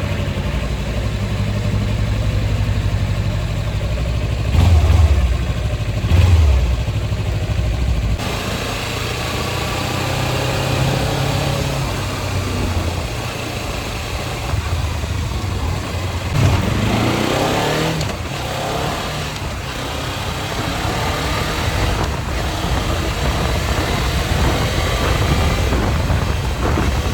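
Kawasaki Ninja 300's parallel-twin engine running as the motorcycle is ridden on the road, its pitch rising as it accelerates about two thirds of the way in.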